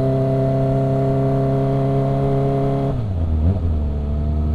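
Kawasaki ZX-25R's four-cylinder engine running at steady revs, then the revs drop to a lower, steady pitch about three seconds in as the throttle is eased off.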